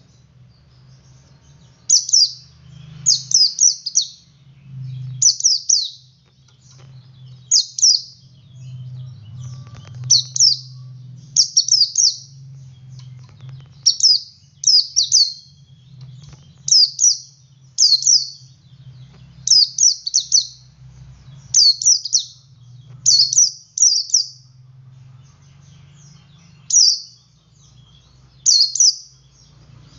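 Male white-eye (pleci) singing in the 'ngalas' style: short, high, sharp notes in clusters of one to three, repeated about every second, starting about two seconds in. A faint low hum sits under the song.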